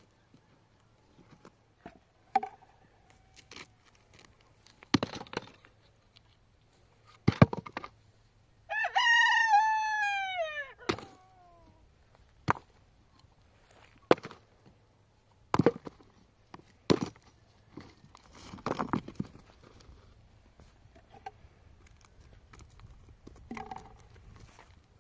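A rooster crows once, about nine seconds in: one call of about three seconds that drops in pitch at the end. Scattered short knocks and clicks come before and after it.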